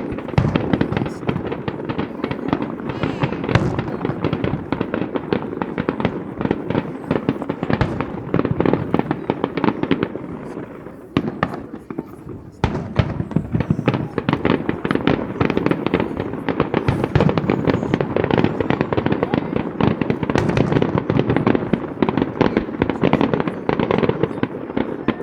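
Fireworks display: a dense, rapid barrage of shell bursts and crackle, easing briefly about halfway through before picking up again just as thickly.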